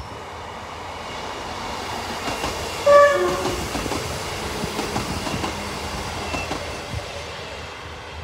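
Northern Class 158 diesel multiple unit running past, its wheels clattering over the rails. About three seconds in, it gives a short two-note horn blast, high note then low.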